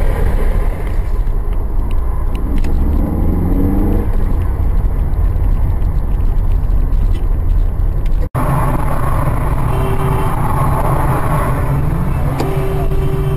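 Car engine and road noise, with a brief rising engine note about three seconds in. The sound cuts out abruptly about eight seconds in and picks up again as a steadier engine hum.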